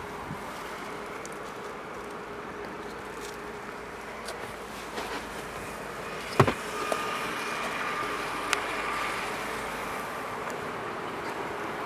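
Steady background hum, with one sharp thump about six and a half seconds in and a lighter click about two seconds later, from handling the trunk of a 1999 Volkswagen Passat B5.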